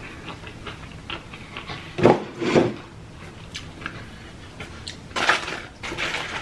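Close-up mouth sounds of a person eating: chewing with small wet clicks, broken by two louder short bursts about two seconds in and another about five seconds in.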